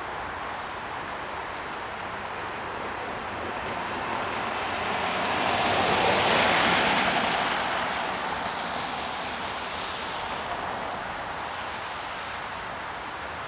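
A vehicle passes by, its even rushing noise swelling to a peak about halfway through and then fading away.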